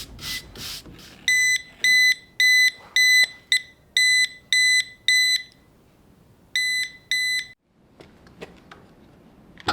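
An electronic beeper sounding a run of short, high-pitched beeps, about two a second. It pauses, beeps twice more, then falls quiet apart from a few faint clicks.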